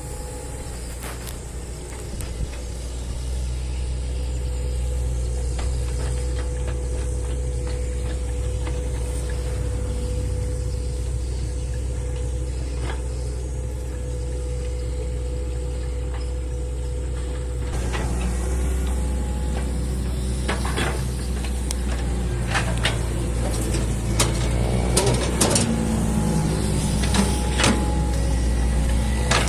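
Hydraulic excavator's diesel engine running steadily under load, with a steady whine for the first two-thirds; in the last third the engine works harder and scattered knocks and clicks come through.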